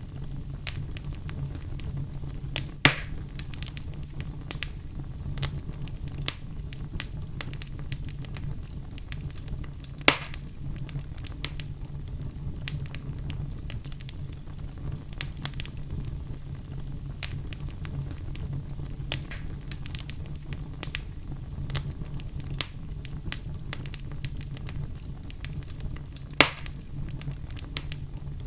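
Wood fire crackling in a fireplace: a steady low rumble of flame with constant small snaps and three louder pops, about three seconds in, about ten seconds in and near the end.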